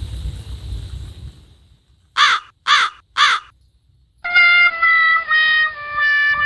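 Wind rumble fades out, then three crow caws in quick succession, a comedy sound effect, followed by a sad-trombone 'wah-wah-wah-waaah' jingle: four descending brass notes, the last one held and wavering.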